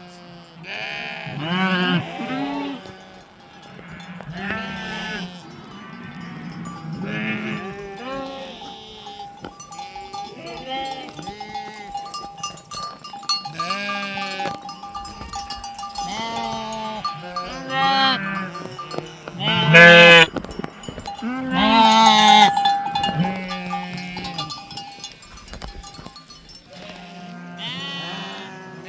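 A flock of Himalayan sheep bleating, many calls overlapping, with a bell ringing among them. The loudest bleats come about two-thirds of the way through.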